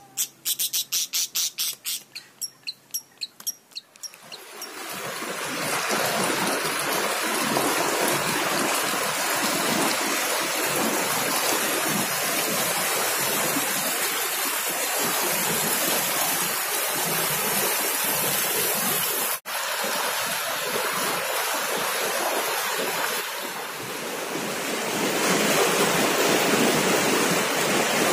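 Steady rushing of a waterfall, an even wash of falling water that cuts out for an instant about two-thirds of the way through. Before it builds up, a quick run of sharp ticks slows and fades away over the first four seconds.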